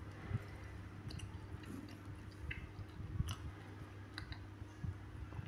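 Close-up chewing of soft, juicy watermelon and papaya, with a few sharp clicks scattered through.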